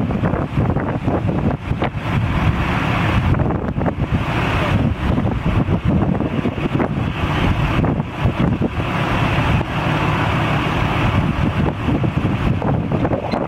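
Steady vehicle and road noise with wind buffeting the microphone in a rough, fluttering rush.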